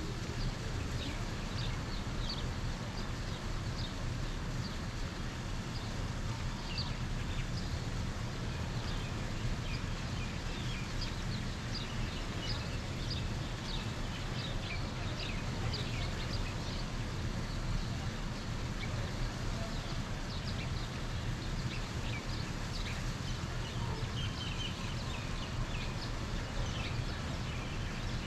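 Morning birdsong: many birds chirping with short, quick calls throughout, over a steady low rumble.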